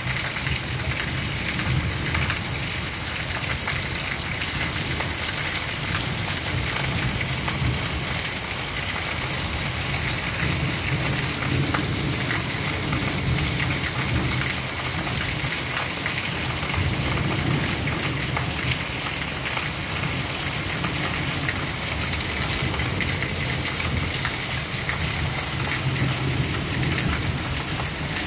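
Heavy rain pouring steadily on trees and foliage, a dense even hiss, with an uneven low rumble underneath.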